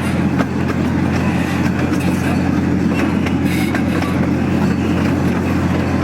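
Park miniature train running steadily, heard from aboard a passenger car: a continuous low rumble of the engine and wheels on the track, with scattered light clicks and rattles.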